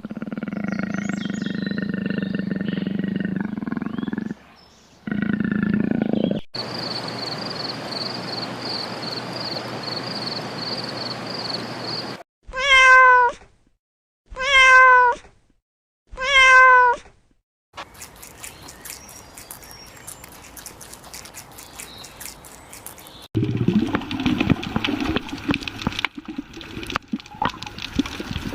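A string of separate animal sound clips; the clearest is a domestic cat meowing three times, about two seconds apart, in the middle. Other animal calls and noisy stretches come before and after the meows.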